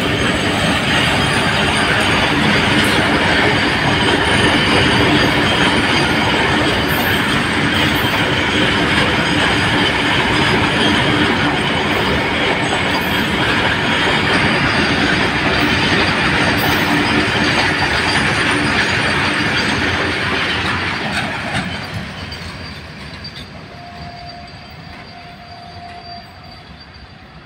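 A long freight train of open steel wagons passing close by: a loud, steady rumble of wheels on rail with occasional sharp clicks. About 21 seconds in, the last wagon goes by and the sound falls away as the train recedes.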